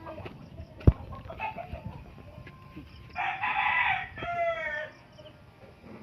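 A rooster crowing once, about three seconds in: a harsh call lasting just under two seconds that ends in a falling, drawn-out note. A single sharp knock comes about a second in.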